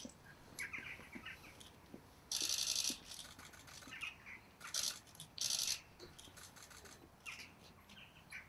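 Small birds chirping, with short bursts of high, rapid trilling about two and a half seconds in and twice more around five seconds.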